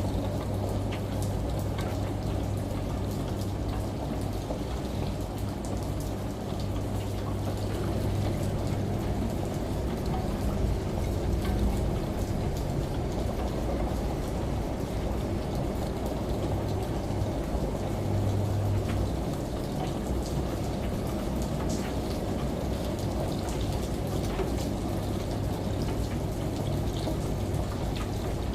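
Steady rain with scattered drop ticks, layered over a continuous low hum and rushing water from a washing machine and shower.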